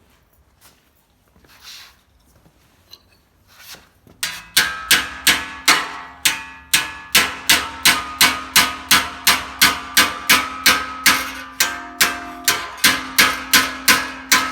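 Body hammer striking a steel patch panel backed by a dolly, bending the metal over a radius: steady blows about three a second, each with a ringing clang, starting about four seconds in after a few light taps. The metal is resisting the fold.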